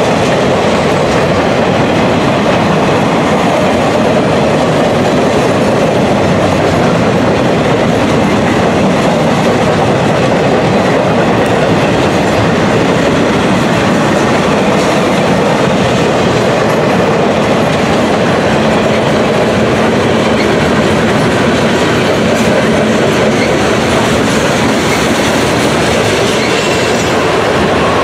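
Freight train of boxcars, an autorack and tank cars rolling past at close range: loud, steady wheel-on-rail noise from the passing cars.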